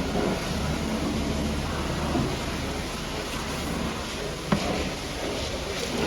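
High-pressure water spray hitting a truck, a steady hiss, with a single sharp knock about four and a half seconds in.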